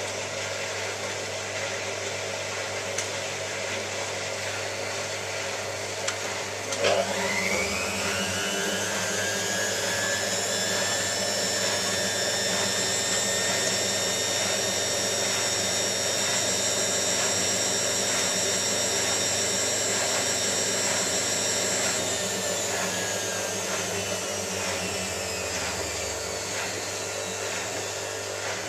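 Hotpoint 9534A washing machine spinning its drum: a clunk about seven seconds in, then the motor whine rises quickly to a steady high pitch, holds, and winds down again near the end. A steady hum and machine noise run underneath.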